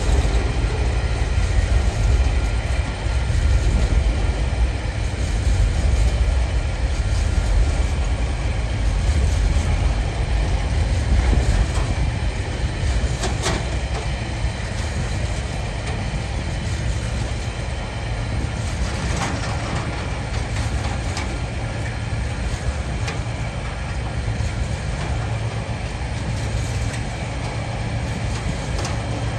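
Container flat wagons of a freight train rolling steadily past, with the steady rumble of steel wheels on the rails and a few sharp clicks. It gets slightly quieter about halfway through, as the loaded wagons give way to empty ones.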